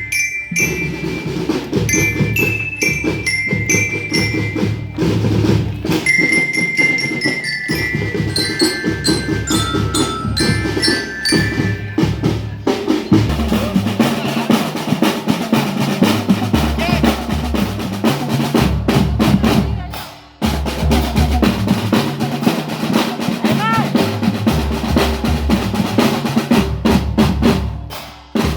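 Marching drum band playing: bell-lyre (glockenspiel) melody notes over snare and bass drums for about the first dozen seconds, then the drums carry on alone in a dense cadence. The sound drops out briefly twice, about two-thirds of the way in and near the end.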